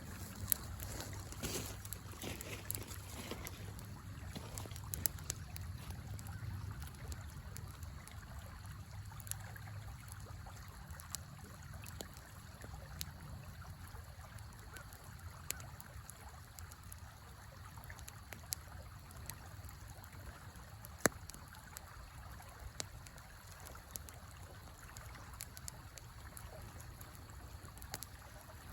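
Wood fire crackling with scattered sharp pops over the steady rush of a river, one pop louder than the rest about two-thirds of the way through.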